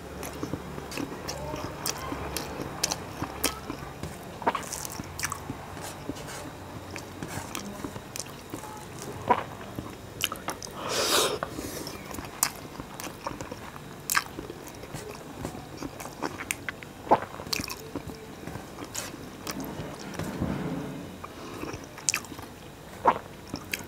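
A man chewing mouthfuls of rice mixed with fried bitter gourd, potato and onion, with many small wet mouth clicks, while his fingers mix rice on a steel plate. A louder noisy sound comes about eleven seconds in.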